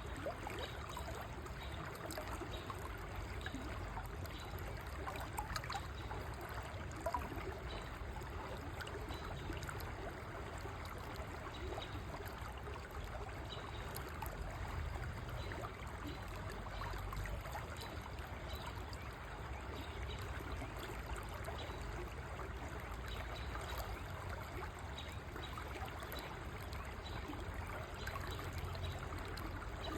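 River water flowing, a steady rushing with fine trickling and splashing.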